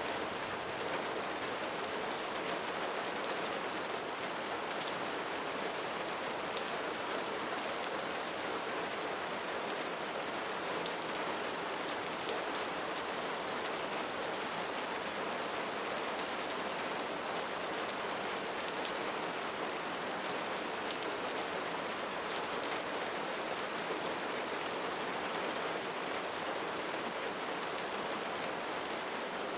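Steady rain falling, an even hiss with the faint ticks of single drops scattered through it.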